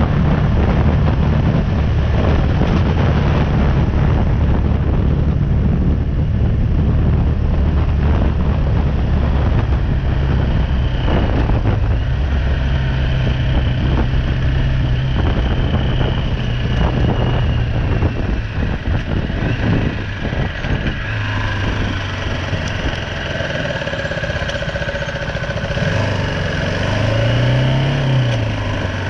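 BMW G310R's single-cylinder engine running steadily under way, then dropping to a low, even idle about two-thirds of the way through, with one short blip of revs near the end.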